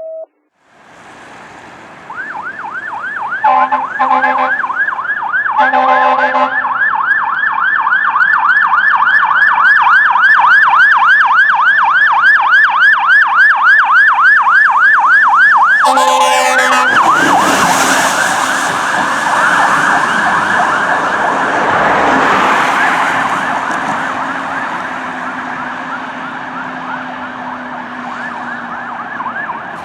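Fire truck's electronic siren in a fast yelp, about three to four sweeps a second, broken by short horn blasts about 3.5 and 6 seconds in and again about 16 seconds in. After the third blast a loud rushing noise swells over the siren for several seconds, then eases off as the truck goes by.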